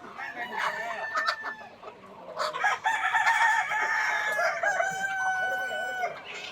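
A large flock of Peruvidai country chickens clucking, then several roosters crowing at once in long, overlapping calls from about two and a half seconds in.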